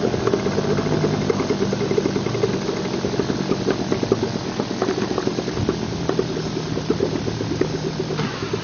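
1957 British Seagull model 102 single-cylinder two-stroke outboard motor running steadily, with a rapid, even ticking of its firing strokes.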